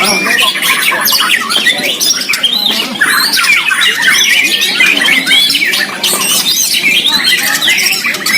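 White-rumped shamas (murai batu) singing at once: a loud, dense, unbroken tangle of quick rising and falling whistles and chatter.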